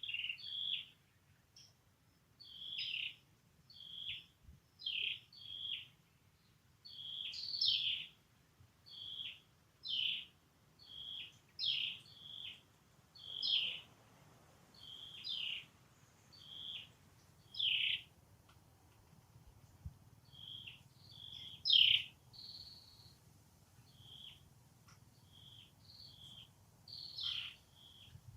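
Repeated short, high-pitched animal calls, roughly one a second, some sliding down in pitch, over a faint low hum.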